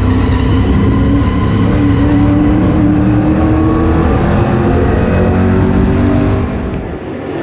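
Super stock race car engine running hard at racing speed, its note sagging a little in pitch and then dropping off in loudness near the end as the throttle eases.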